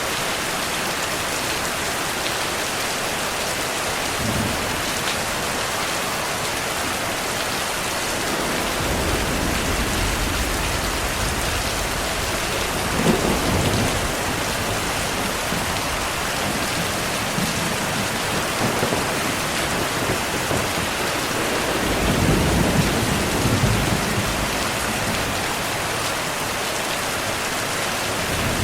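Steady heavy rain with rolling thunder. A low rumble builds about a third of the way in, a sharper thunderclap comes about halfway, and another long rumble follows near the end.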